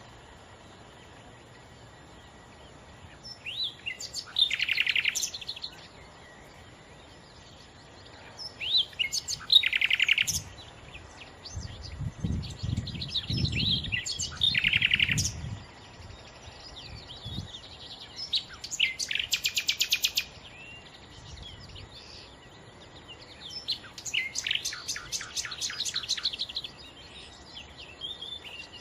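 Nightingale singing: about five separate phrases a few seconds apart, each ending in a fast run of repeated notes. A brief low rumble sounds under the middle phrase.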